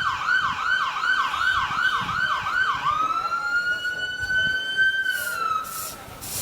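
Emergency vehicle siren sounding a rapid yelp of about three sweeps a second. About three seconds in it switches to a long held tone that slowly rises, then falls away near the end.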